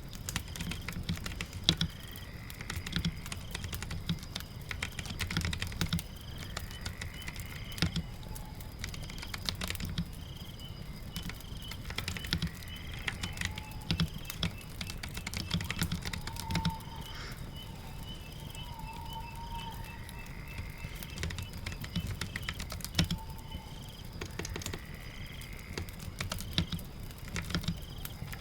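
Keyboard typing in irregular bursts of clicks, over a steady patter of rain.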